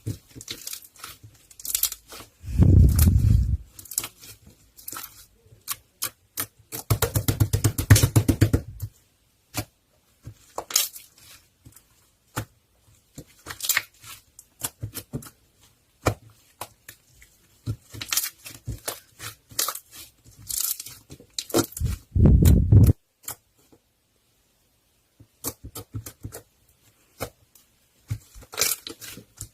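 Close handling noises: irregular crackling, crinkling and clicking, broken by three louder low rumbling bumps, about 3 s in, around 8 s and about 22 s in.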